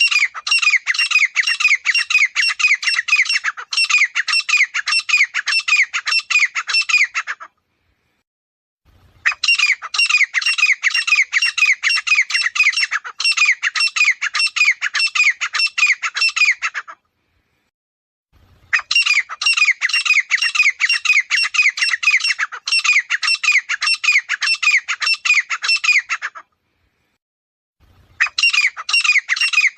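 Grey francolin calling: bouts of loud, rapid, harsh repeated notes, each lasting about seven seconds, with short silent breaks between them about 8, 17 and 27 seconds in.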